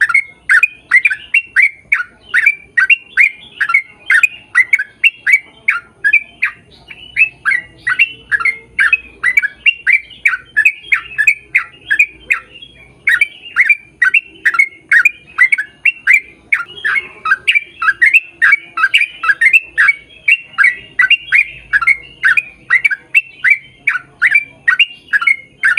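A bird calling over and over, about three short squawks a second, each falling in pitch. The calls run on steadily, with one brief break about halfway through.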